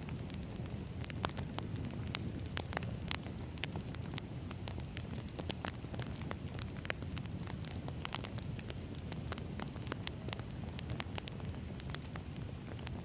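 Wood fire burning: a steady low rumble of flames with frequent irregular snaps and pops from the burning logs.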